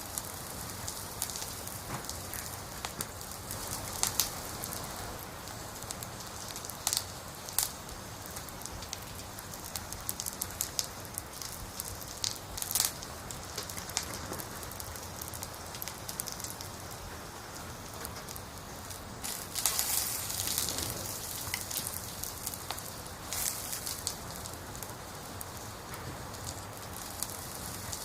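Campfire of burning firewood crackling: a steady hiss with sharp pops scattered through it, and a louder cluster of crackles about twenty seconds in.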